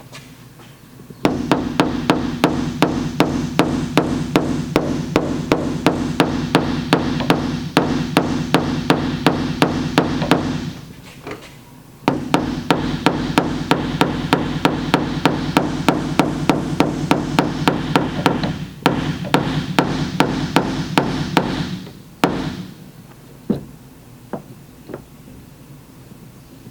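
A body hammer tapping down high spots in a steel car liftgate panel while it is held under pulling tension. The taps come fast and even, about four a second, with a metallic ring, in two runs of about ten seconds each with a short pause between.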